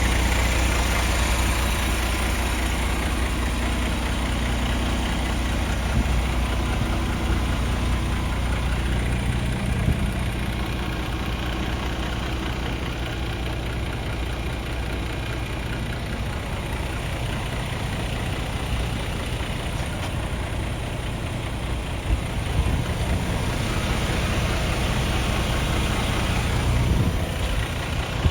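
MAN TGX 18.540 tractor unit's 12.4-litre straight-six diesel idling steadily, its hum shifting slightly in loudness and tone now and then.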